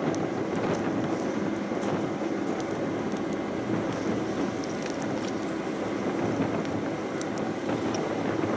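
Steady rush of strong wind on the microphone, with scattered faint crackles.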